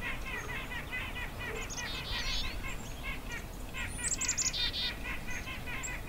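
Small songbirds chirping: a quick, steady run of short chirps, about four or five a second, with a brief cluster of higher, thinner notes about two-thirds of the way in.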